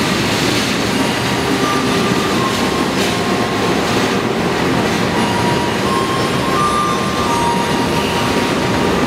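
CC 206 diesel-electric locomotive passing close as it pulls into the station, followed by its passenger coaches rolling by, a steady loud rumble with thin squeals from the wheels coming and going as the train slows to stop.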